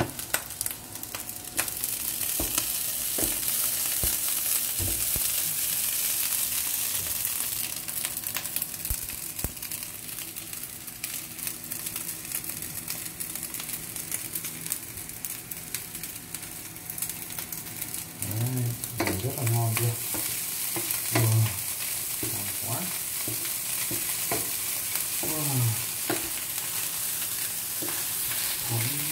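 Egg fried rice sizzling in a frying pan on an induction hob as it is stirred and turned with a wooden spoon, the spoon scraping and tapping against the pan. A few short low pitched sounds come in about two-thirds of the way through.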